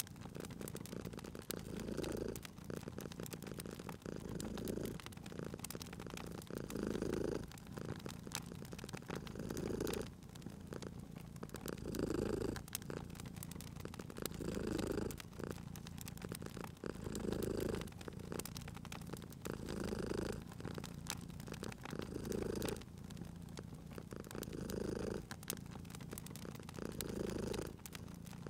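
Cat purring in a steady rhythm that swells about every two and a half seconds, with each breath. Scattered pops and crackles of a wood fire run under it.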